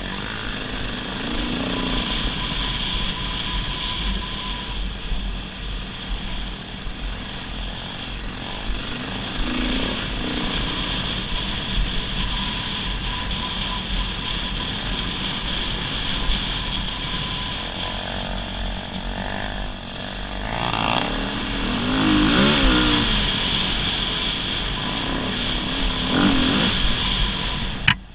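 Dirt bike engine running while riding a trail, with the revs swinging up and down a few times in the second half; the sound breaks off abruptly near the end.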